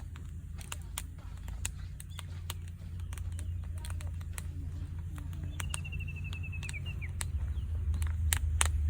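A bird gives one rapid trill of about ten notes, slightly falling, a little past the middle. It sounds over a steady low rumble and scattered sharp clicks.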